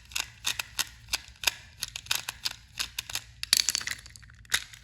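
A plastic battery-powered toy train engine being handled: a quick run of irregular sharp clicks and taps, plastic on plastic, with a denser cluster about three and a half seconds in.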